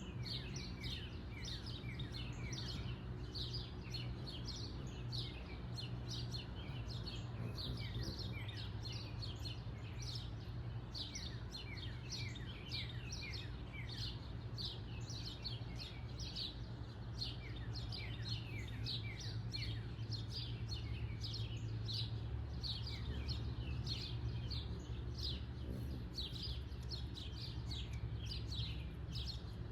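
Songbirds chirping in a dense, continuous chorus of short calls that each drop in pitch, several a second and overlapping. A steady low hum runs underneath.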